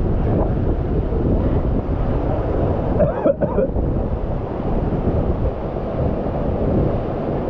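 Steady rushing roar of a waterfall pouring into its pool, with a brief voice-like cry about three seconds in.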